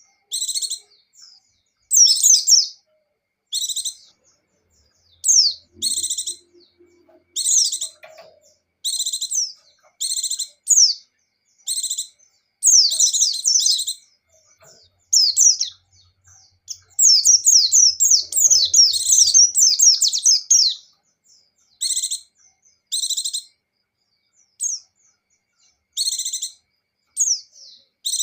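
White-eyes (pleci) singing in short, high-pitched chirping phrases about once a second. Twice the phrases run together into longer rapid warbling runs, the continuous 'ngecir' song.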